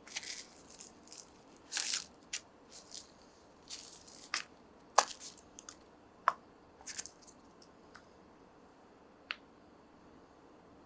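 Packaging being handled during an unboxing: short rustles and sharp clicks and taps, thick through the first seven seconds, then one last click about nine seconds in.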